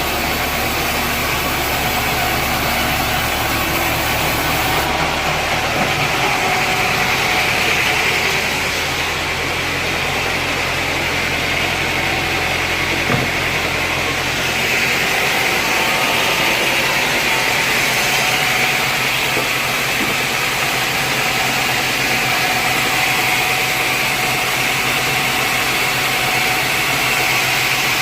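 Sawmill machinery running steadily: a continuous engine-like drone with a high whine over it. The low hum drops away about six seconds in and again about halfway through.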